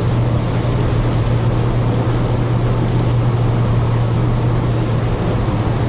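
Steady engine and road drone inside a moving car's cabin, with tyres hissing on a wet road.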